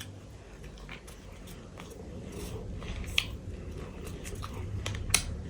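Close-miked chewing and crunching of chatpate, a spiced puffed-rice snack, with scattered crisp clicks and a sharper crunch about three seconds in and again about five seconds in.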